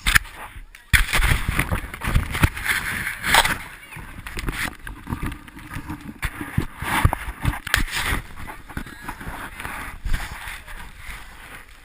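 Snowboard sliding and scraping over snow while wind buffets the microphone, giving an irregular rushing noise broken by many low thumps.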